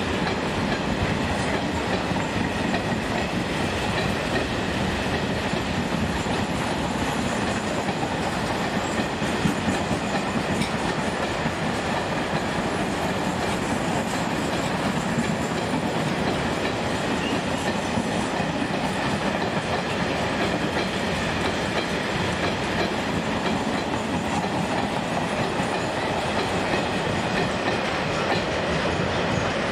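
Train rolling past on the rails at a steady loudness, with no rise or fade, throughout.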